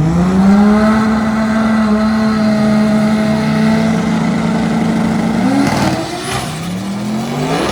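A performance car's engine held at steady high revs for about five seconds, then the revs drop and climb again near the end.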